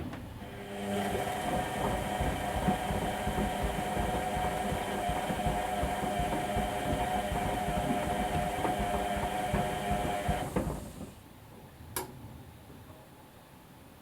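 Whirlpool washing machine running steadily, with a hum of fixed tones and a hiss, for about ten seconds, then stopping; a single sharp click follows about a second later.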